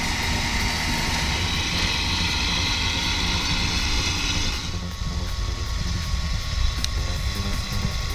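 Log skidder's engine running steadily, with a higher hiss over it that drops away about five seconds in.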